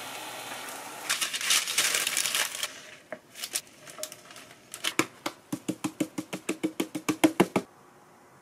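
Potato-shred pancake frying in an oiled pan, a steady sizzle that grows louder and crackly about a second in and then dies away. Near the end comes a quick, even run of sharp clicks, about six a second, for a couple of seconds.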